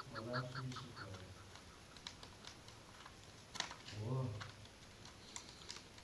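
Chukar partridge calling: a fast run of repeated 'chuk' notes that trails off within the first second or so. After it come scattered sharp clicks and two short, low voice-like sounds.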